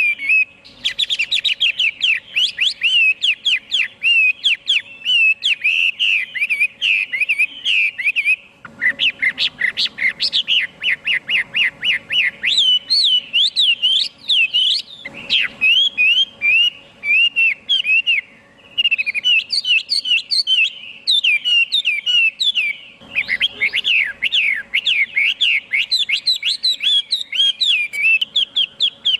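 Chinese hwamei singing: a fast, continuous run of loud whistled notes that sweep up and down, broken by a few short pauses.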